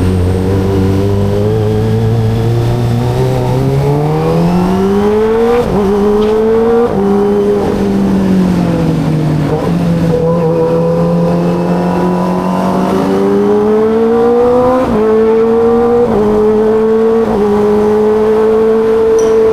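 Kawasaki ZX25RR's 249 cc inline-four engine pulling through the gears: the pitch climbs and drops sharply at two upshifts about a quarter of the way in, sinks as the throttle is eased, then climbs again with three quick upshifts before settling into a steady cruise.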